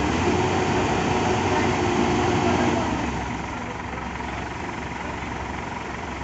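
A vehicle engine running, loudest for the first three seconds and then fading into steady traffic noise.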